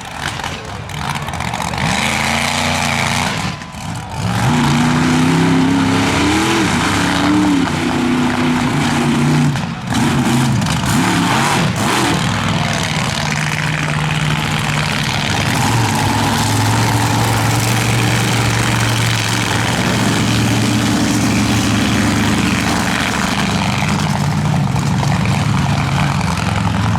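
Monster truck engines racing at full throttle, revving up and down with brief lifts of the throttle about four and ten seconds in, then held high and steady for the rest of the run.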